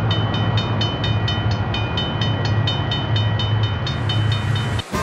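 A train running: a steady low hum with regular clicking over the rail joints, about four clicks a second. It cuts off abruptly near the end.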